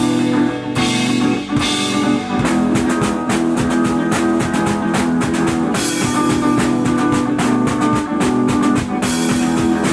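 Live band playing an instrumental passage: guitar chords ringing over a drum kit, with the drumming turning into dense, rapid hits about two and a half seconds in.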